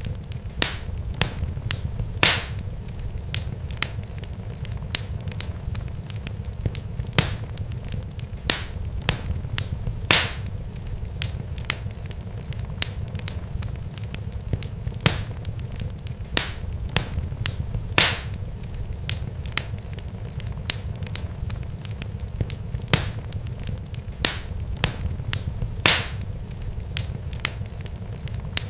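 Irregular sharp crackling pops, several a second, with a louder snap every few seconds, over a steady low rumble.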